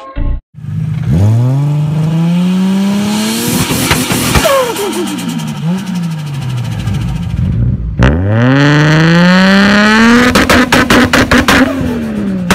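Turbocharged RB26 straight-six of a Nissan Skyline R34 GT-R revved hard twice. The revs climb steeply and hold, then drop away with a wavering, fluttering note. On the second rev the engine holds near the top with a rapid stutter of pops.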